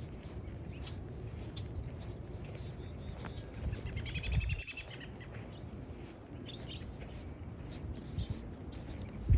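Wind rumbling on the microphone with evenly paced footsteps on the trail, and a bird giving a short run of high arching call notes about four seconds in.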